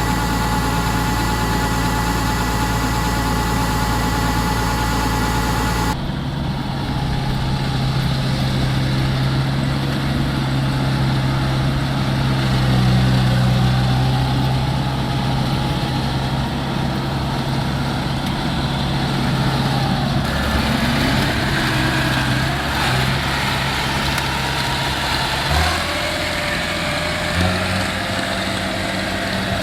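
Rice combine harvester engine running steadily under load. The note changes abruptly about six seconds in and shifts again a few times near the end.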